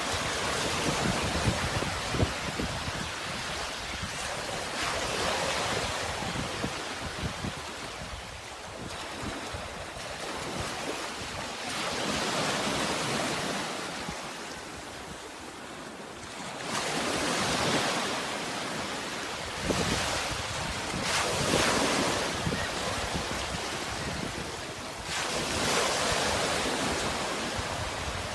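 Sea waves washing in, surging and falling back every few seconds.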